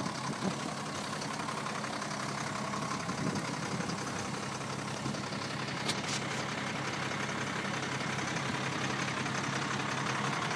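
Municipal leaf-collection truck's engine idling steadily and unattended, a low even hum with a faint click about six seconds in.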